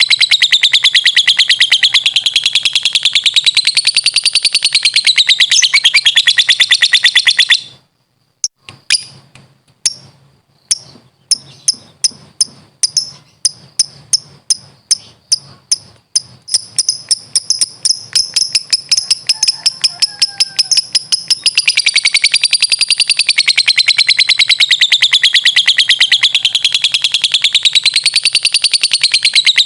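Lovebird giving its long 'ngekek' chatter, a fast, shrill rattling trill whose pitch wavers up and down. It breaks off about a third of the way in, then starts again as separate chirps that quicken back into an unbroken trill.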